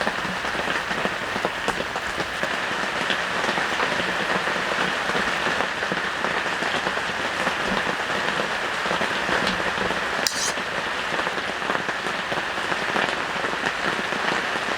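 Heavy rain falling in a steady, dense downpour, with one short sharp tick about ten seconds in.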